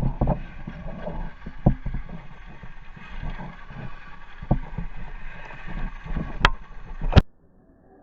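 Tamiya Lunchbox brushless RC monster truck driving over rough ground: a steady rumble broken by repeated thumps and bumps, with two sharp knocks near the end. The sound drops abruptly to a faint hiss about seven seconds in.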